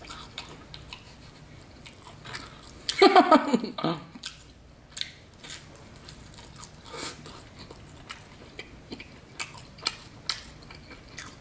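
Close-up biting and chewing of a thin-crust New York-style margherita pizza slice: irregular crisp clicks and crunches of the crust, with a short vocal sound from the eater about three seconds in.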